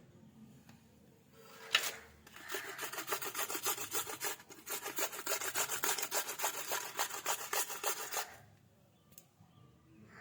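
A sharp knock about two seconds in, then rapid, even rubbing or scraping strokes, several a second, for about six seconds before they stop.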